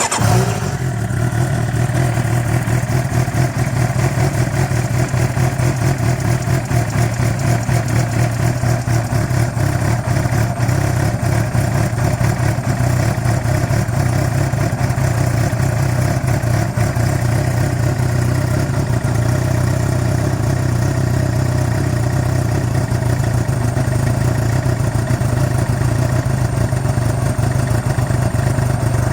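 Suzuki GSX-R600 K9's inline-four engine idling steadily just after being started from cold.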